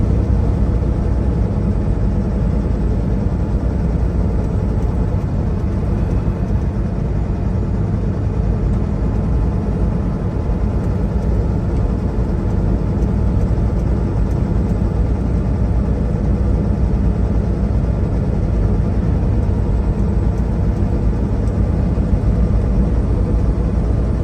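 Semi-truck diesel engine and road noise heard from inside the cab while cruising: a steady low drone that holds at a constant pitch and level.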